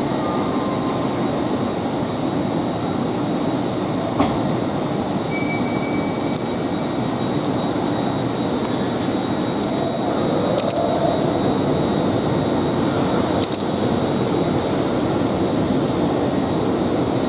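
Passenger train moving slowly through the station, a steady rumble and hiss with a faint steady high whine.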